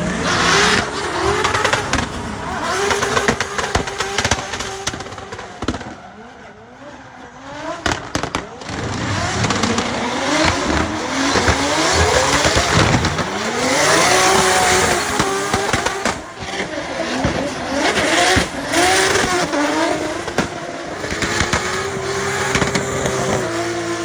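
Toyota 2JZ straight-six in a BMW E46 drift car revving hard, its pitch repeatedly rising and falling as the driver works the throttle through a drift, with tyres squealing over it. The engine drops away for a couple of seconds about six seconds in, then comes back on hard.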